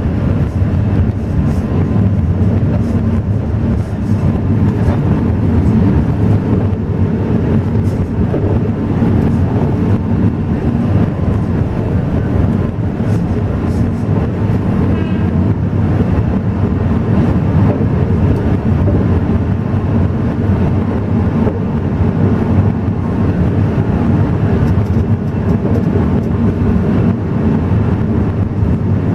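Alishan Forest Railway narrow-gauge train running, a loud, steady low rumble of wheels on rails and the diesel locomotive.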